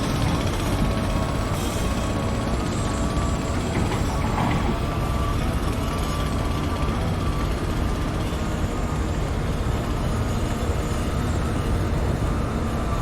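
Construction-site machinery running: a steady low engine rumble from heavy vehicles with a thin, slightly wavering whine above it.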